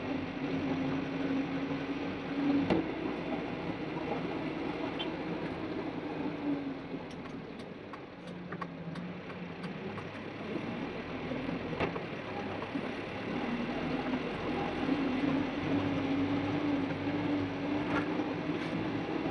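Mitsubishi Canter light truck's engine running while driving, heard from inside the cab. Its pitch drops around the middle and climbs again later, and a few sharp clicks are heard.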